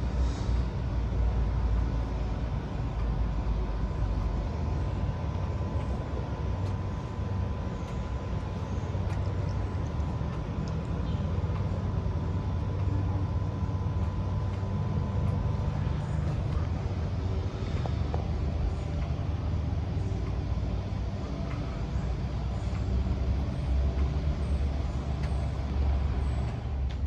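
A steady low rumble with a faint steady high tone that stops about two-thirds of the way through.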